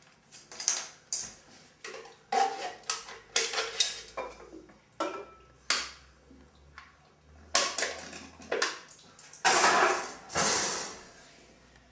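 Clattering of pots, pans and utensils as ingredients are added to a pot, with many short knocks and one longer rush of noise near the end.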